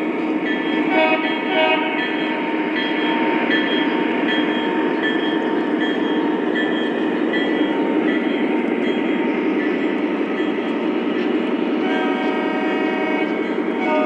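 Lionel model diesel locomotive's onboard sound system blowing its horn in the first couple of seconds and again about 12 seconds in, with a bell ringing in repeated short dings in between. Under it, the steady rumble of the model train rolling along the track.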